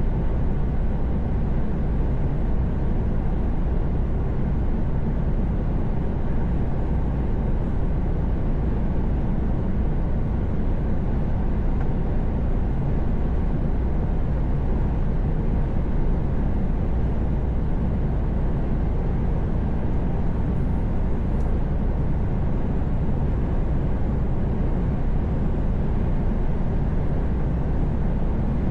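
Truck driving at highway speed: a steady, low drone of engine and road noise that holds even throughout.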